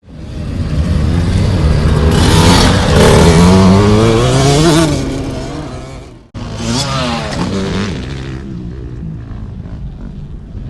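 Motocross bike engine revving, its pitch climbing and falling back. It breaks off abruptly about six seconds in, then revs up once more and settles to a lower, steady run.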